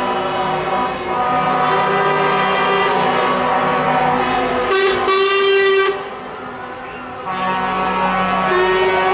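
Several truck air horns sounding at once in long held blasts, dropping away briefly about six seconds in before starting again. Near the end a tone slides down and then back up over the horns.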